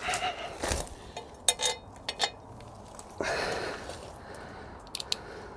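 Masking tape being peeled off bolts in short rasping tears, mixed with light clicks and clinks of small metal parts being handled.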